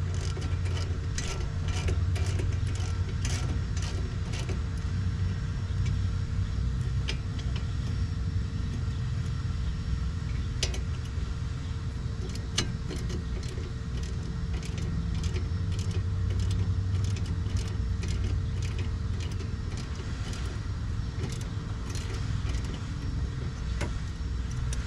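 Many light, sharp metallic clinks and ticks of hand tools and brake parts being handled, irregularly spaced, over a steady low hum with a faint constant tone.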